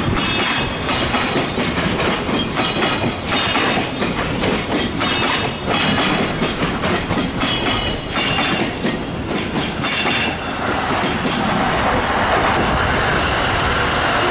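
Freight train container flat wagons rolling past close by. The wheels clack over the rail joints in an irregular rhythm, with a faint high wheel squeal. About ten seconds in, the clacking gives way to a steadier rolling noise.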